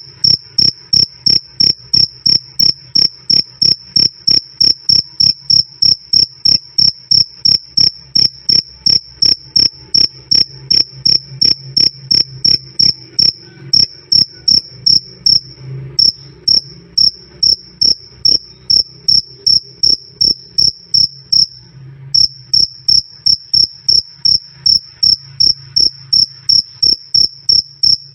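Cricket chirping loud and clear in a steady, even rhythm of about two to three high-pitched chirps a second, the run broken by a few short pauses.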